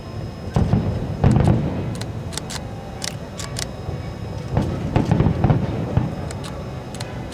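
Fireworks shells bursting: a series of deep booms and sharp cracks, the loudest about a second in and a cluster again around five seconds in.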